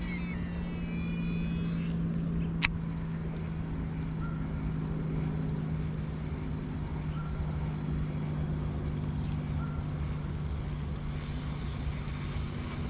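An engine running with a steady low hum, its pitch sinking slightly. A sharp click comes about two and a half seconds in.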